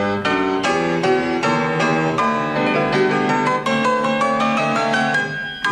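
Piano music, with quick successive notes struck several times a second.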